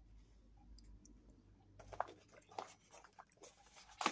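Someone chewing a mouthful of sausage: faint, wet mouth clicks and smacks, coming in short irregular bursts from about two seconds in.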